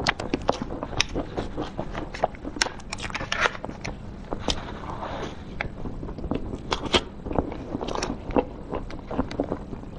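Close-miked chewing and mouth sounds of someone eating a soft cookie-crumb cream cake, with many irregular sharp clicks and smacks.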